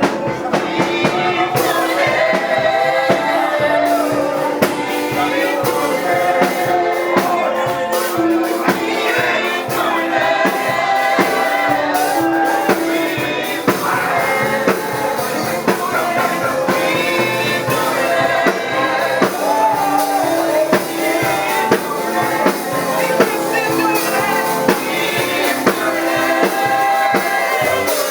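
Live gospel praise music: singing over a band with drums, held at a steady level.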